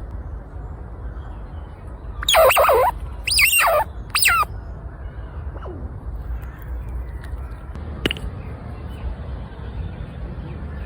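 A bird calls three times in quick succession, each call about half a second long with a wavering, bending pitch, over a steady low background rumble. A single short sharp sound follows about eight seconds in.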